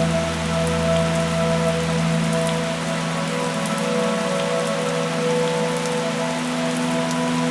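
Steady rain falling, with soft ambient music of long held notes underneath.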